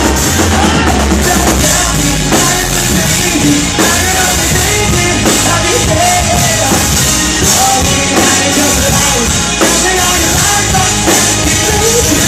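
Live rock band playing loud through a concert PA, with full drum kit, distorted guitars and sung or shouted vocal lines.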